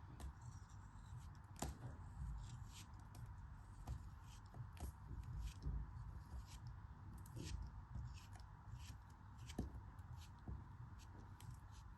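Knife cutting with crisp, irregular clicks and crackles, a few each second.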